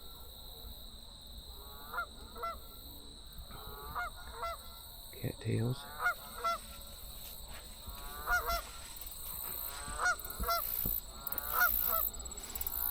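Geese honking repeatedly, mostly in pairs of calls every second or two, over a steady high-pitched hum.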